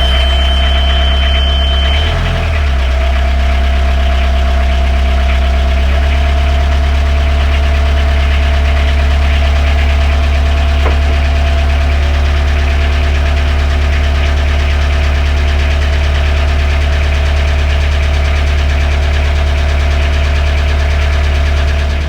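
A narrowboat's inboard diesel engine running loud and steady at constant revs, with a deep hum and a thin high tone over the first two seconds. This is the engine bay newly lined with sound-deadening panels, which the owner is not convinced has made any difference.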